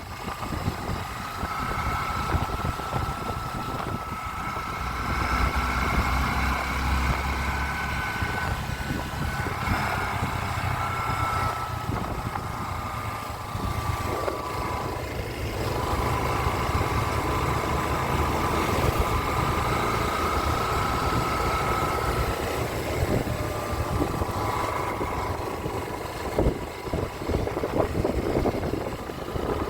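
Small-displacement motorcycle engine running steadily, its pitch slowly rising and falling.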